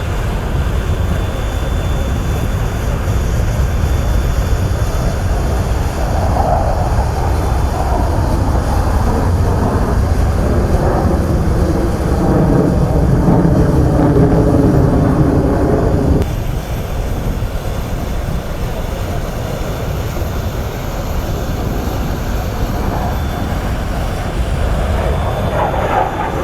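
Sukhoi Su-30SM fighter jets flying an aerobatic display: loud, continuous jet engine noise with shifting engine tones that swells over the first half and drops off abruptly about 16 seconds in.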